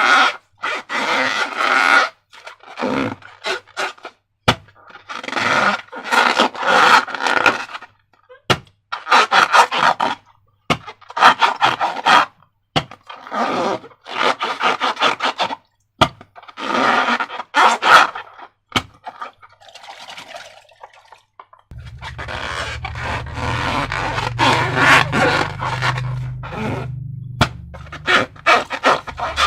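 Slime being squished and stretched by hand, giving irregular bursts of wet, sticky crackling squelches with short pauses between them. Toward the end a low rumble runs beneath.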